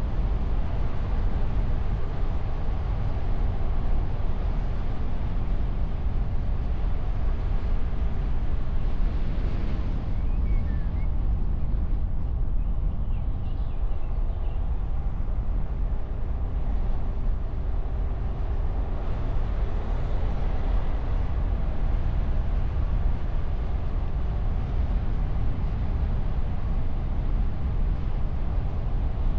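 A car driving on the road, heard from a camera mounted on its bonnet behind a wind muff: a steady low rumble of wind and road noise with a faint engine hum.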